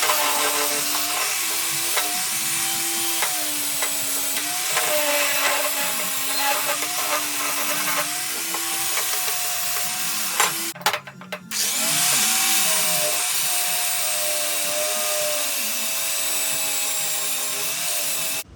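Power grinder blending down a fresh weld on a metal bracket, its motor pitch dipping and recovering as the disc bites. It lets off briefly about eleven seconds in, then runs on.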